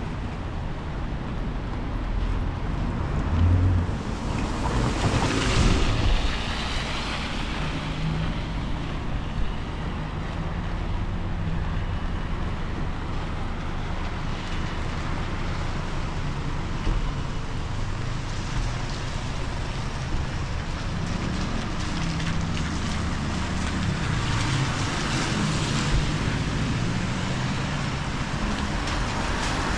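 Wind gusting over the microphone with road traffic passing on wet streets; a vehicle goes by about five seconds in, and engine hum comes and goes after it.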